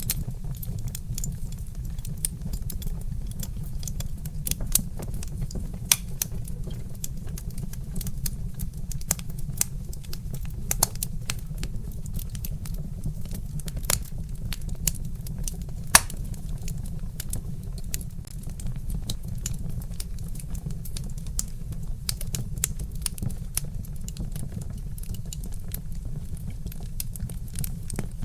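Wood fire crackling, with irregular sharp pops and snaps, one louder pop about halfway through, over a steady low rumble.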